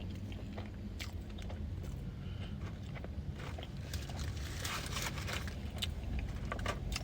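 Close-up mouth sounds of a person eating: chewing and biting with scattered wet clicks, and a denser crunchy crackle about four to five seconds in, over a steady low hum.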